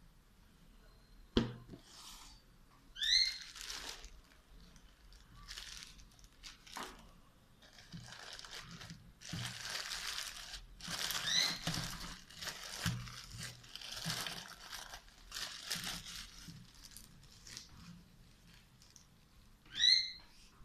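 Paper and plastic packaging crinkling and rustling in irregular bursts as the hair dryer and its box contents are handled, with a sharp click early on. Two short, high, rising chirps are heard, one a few seconds in and one near the end.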